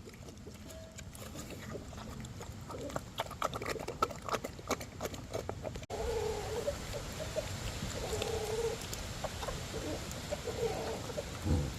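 Mini pig eating watermelon, chewing and smacking wetly with many quick crunches. After a cut about halfway through come a few short grunts.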